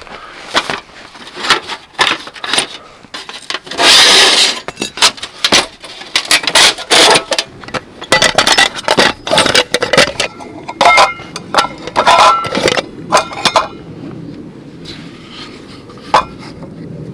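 Camp gear being handled: a run of knocks and light metallic clinks, with a longer scraping rush about four seconds in.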